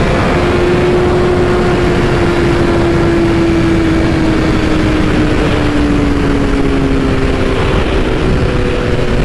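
BMW S1000RR inline-four engine running at road speed under heavy wind rush on the helmet microphone, its note sinking slowly over about seven seconds as the bike eases off.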